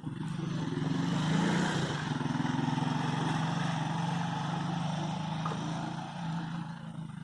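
A motor vehicle's engine running steadily, growing louder about a second in and then slowly fading.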